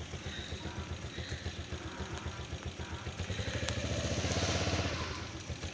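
A small engine idling with a steady rapid putter. It revs up from about three seconds in and eases back near the end.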